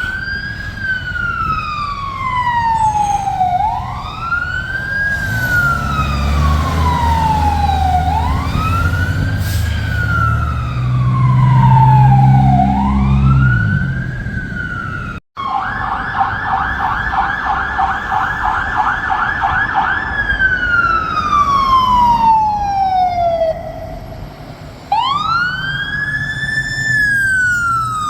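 Fire truck sirens wailing: a sweep that rises quickly and falls slowly, repeating about every four seconds, with a low rumble swelling underneath for several seconds in the middle. After an abrupt cut, a second truck's siren runs a rapid yelp for about four seconds, then falls off and goes back into a slow wail.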